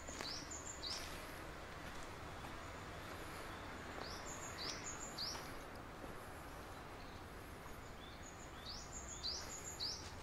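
A songbird calling: a phrase of three short high notes, each sliding down in pitch, given three times about four seconds apart, over a steady low outdoor background noise.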